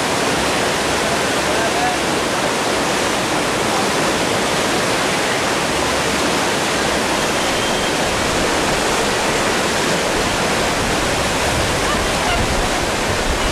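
Whitewater river rapids rushing: a steady, unbroken roar of churning water.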